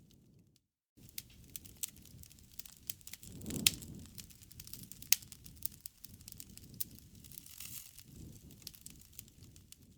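Wood campfire crackling and popping over the low rush of the flames, with sharp pops about three and a half and five seconds in. The sound drops out to dead silence for a moment just under a second in.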